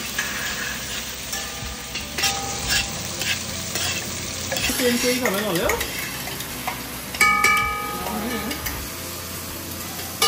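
Sliced peppers frying with a steady sizzle in a metal pot while spoons stir and scrape around two pots. Short knocks of spoons on the pots, the loudest about seven seconds in, followed by a brief ring of the metal.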